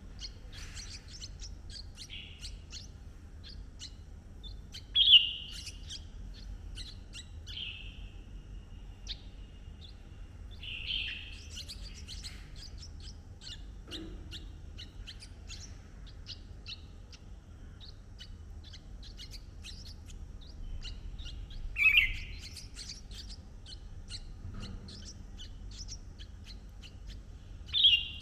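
Red-whiskered bulbuls calling: four loud, short calls spaced several seconds apart, over a steady scatter of faint, rapid high chirps.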